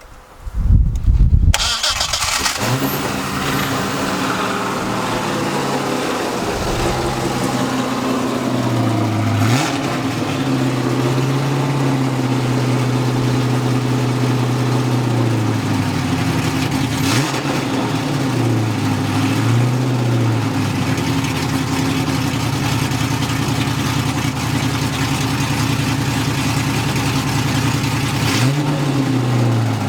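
A ported, tuned LS6 V8 with headers is cranked and catches loudly after about a second and a half. It settles into a steady idle and is blipped briefly several times, around ten seconds in, twice near the middle and again near the end.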